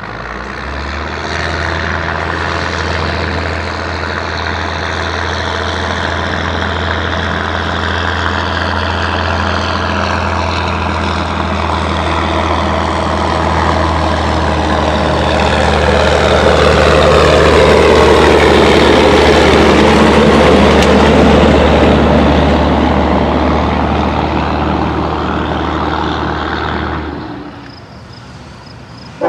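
A heavy engine's steady low drone under a rushing noise that swells to its loudest about two-thirds of the way through, then fades and cuts off abruptly near the end.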